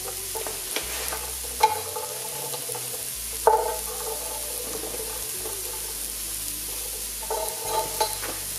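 Diced carrots and onions sizzling steadily in the stainless inner pot of an Instant Pot. A few sharp metallic clinks ring briefly, the loudest about one and a half and three and a half seconds in, with a small cluster near the end.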